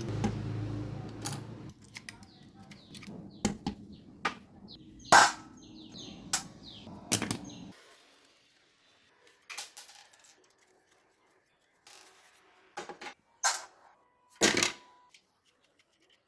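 Scattered clicks and knocks of small hard objects, the loudest about five seconds in, over a low steady hum that cuts off suddenly near eight seconds; after that only a few isolated clicks.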